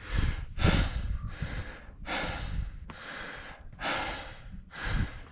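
A person breathing hard and fast, out of breath from the climb up the mountain: about seven noisy breaths in five seconds.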